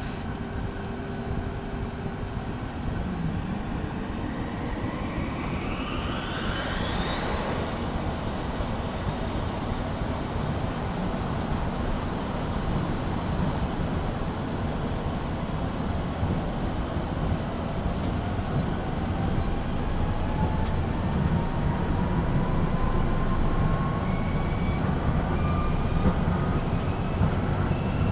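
Beechcraft Premier I's twin Williams FJ44 turbofans spooling up to takeoff power, heard from the cockpit. A whine rises steeply about four to eight seconds in, then holds steady over a constant rumble. A second, lower tone climbs slowly through the later part of the takeoff, and the sound grows gradually louder.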